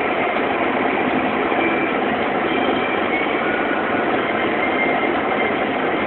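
Steady car cabin noise: an even hiss with a low engine hum from a car creeping along in traffic.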